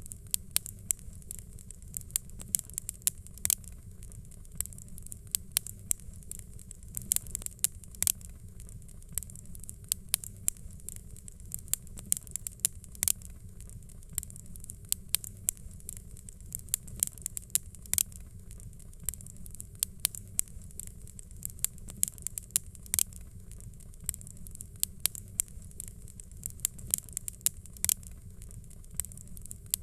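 Fireplace fire crackling: many sharp pops and snaps at irregular intervals over a steady low rumble.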